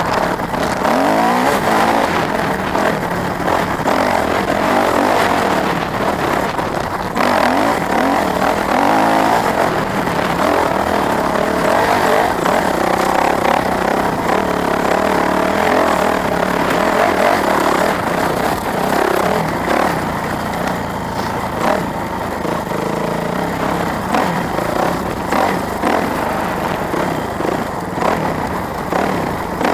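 Dirt bike engine being ridden on a trail, its pitch rising and falling as the throttle opens and closes, with wind noise over it.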